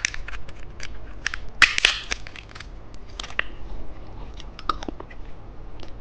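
Hard-candy lollipop being bitten and crunched between the teeth, close to the microphone: a series of sharp cracks and crunches, loudest about two seconds in, then softer crunching.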